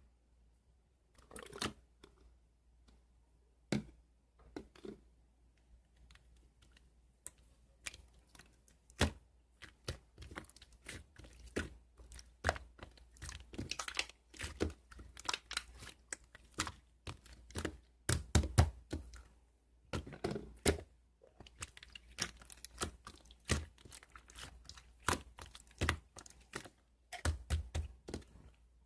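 Slime being worked by hand: irregular crackling clicks and pops, sparse at first and coming thick and fast from about eight seconds in.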